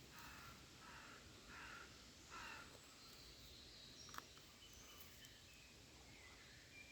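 A crow cawing faintly, four caws about three-quarters of a second apart, over near-silent woodland quiet; a single sharp click about four seconds in.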